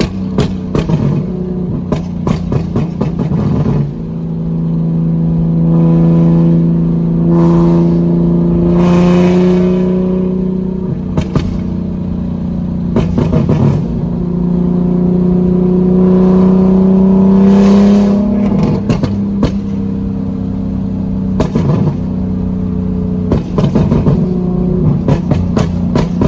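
Nissan 370Z's 3.7-litre V6 running through a straight-piped exhaust with no muffler or catalytic converters. It makes two long pulls, each rising slowly in pitch, with rapid crackling and popping from the exhaust near the start, between the pulls and near the end.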